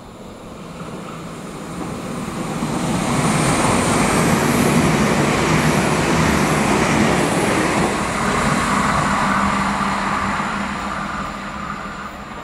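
Irish Rail 22000 class diesel multiple unit passing through a station. The rumble of its engines and wheels builds over the first few seconds, is loudest as the carriages go by, then fades, with a steady engine drone in the latter part.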